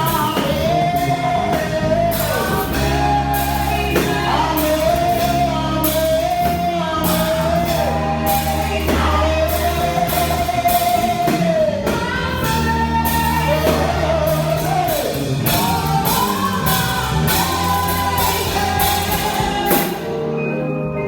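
Live gospel song: a lead singer holding long notes over a full band with drums and bass. The drums drop out about a second before the end, leaving the voice and sustained chords.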